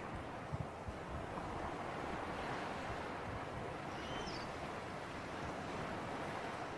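Steady wash of sea surf in an onshore breeze, with wind buffeting the microphone in a few low thumps about half a second to a second in.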